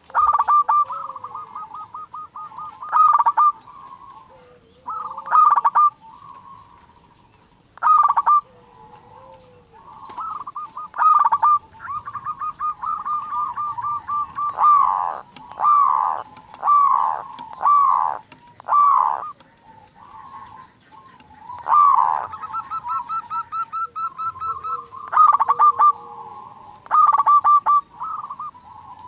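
Zebra doves (perkutut) cooing in repeated bouts. Each bout is a fast trill of soft notes, and louder coos fall in pitch in a run of five or six about halfway through.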